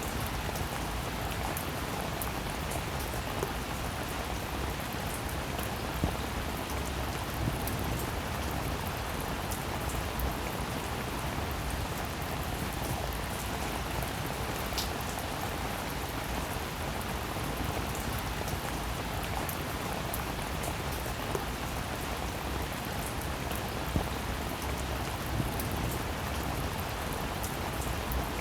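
Steady rainfall, an even hiss of falling rain with individual drops ticking sharply now and then.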